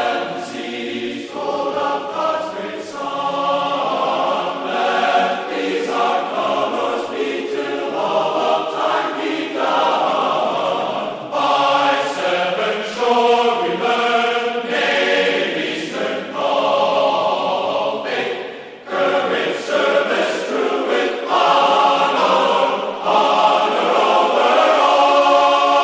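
A choir singing in harmony, holding long chords that change every second or two.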